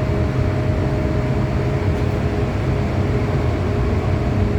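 Inside a moving MTR M-Train passenger car at steady speed in the tunnel: a continuous rumble of wheels on rail with a steady whine at two pitches.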